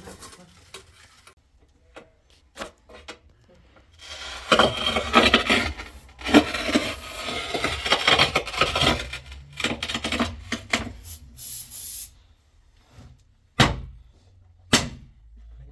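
Rough scraping and rubbing, like wood or metal being rasped, runs for several seconds after a few light clicks, then two sharp knocks near the end.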